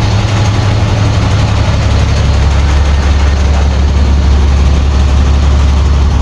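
Track motor car's engine running steadily with a loud, low drone.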